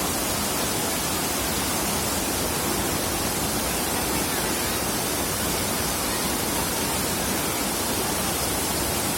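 Waterfall: falling water rushing steadily, an even unbroken noise.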